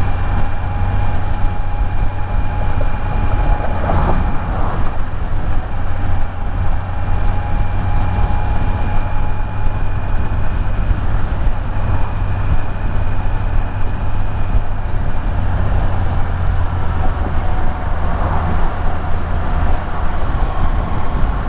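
Kawasaki Z900 inline-four motorcycle running at a steady cruising speed, with a deep constant rumble of engine and wind noise and a faint steady whine.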